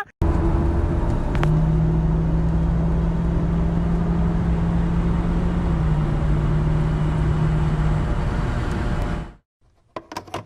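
Car engine running steadily with a constant hum. It cuts in abruptly at the start and fades away about nine seconds in.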